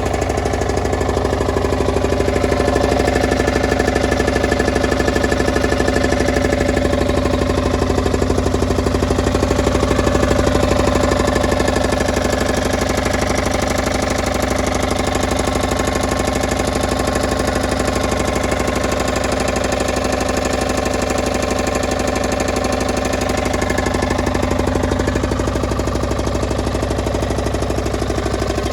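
Yanmar C10R-1 crawler carrier's diesel engine running steadily, rising slightly in level now and then.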